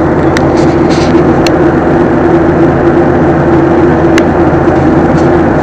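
Steady airliner cabin noise in flight: the even rush of engines and airflow with a constant mid-pitched hum, and a few faint clicks.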